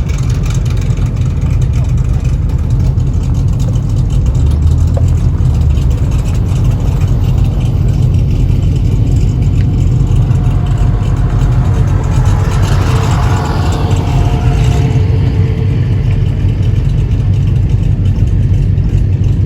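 A car engine running with a deep, steady rumble, growing a little busier about twelve seconds in.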